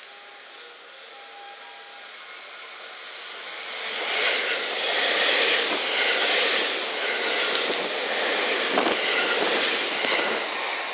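JR West 227 series electric train running past close by: quiet at first, then rising about four seconds in to a loud rush of wheel and rail noise, with regular clicks of wheels over rail joints about once a second.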